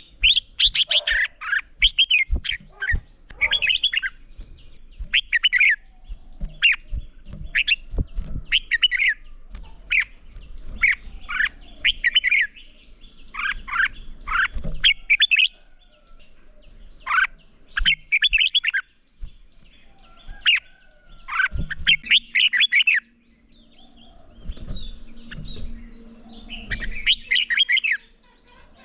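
Red-whiskered bulbul song: a fast series of short, bright chirping phrases with a few brief pauses, the competitive singing that keepers train their birds for. Faint low knocks sound underneath.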